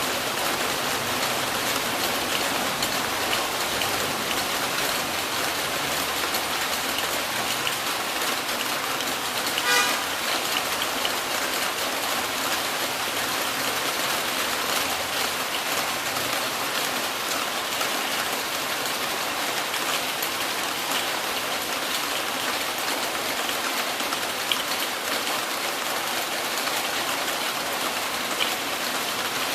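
Heavy rain falling steadily, an even hiss. About ten seconds in, a short pitched toot sounds once.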